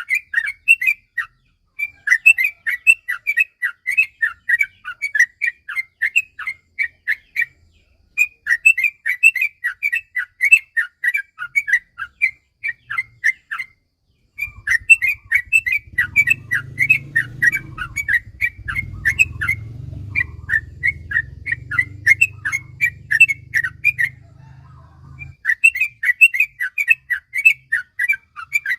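Yellow-vented bulbul singing long runs of quick, bubbly notes, several seconds per phrase, with short pauses between. A low hum sits underneath from about halfway until near the end.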